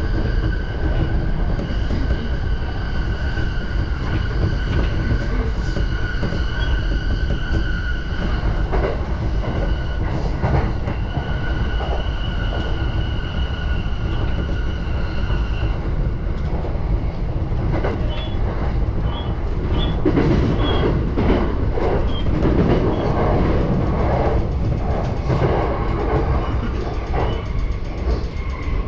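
A JR Yamanote Line electric commuter train running, heard from inside the carriage: a steady rumble of wheels on rail with a high electric whine that stops about halfway through. The rest is rattling and clicking over the track.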